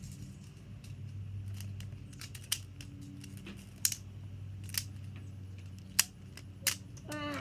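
Hard building pieces clicking and clacking as they are handled and set in place, a sharp click every second or so, over a steady low hum.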